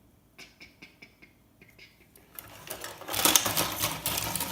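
Scrap circuit boards and electronic parts handled and rummaged through: a few light taps at first, then a dense, rapid clatter of hard plastic and metal pieces knocking together from about halfway in.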